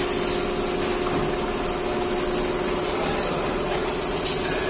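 Petrol car engine idling steadily just after being started, on an engine whose head gasket is suspected blown.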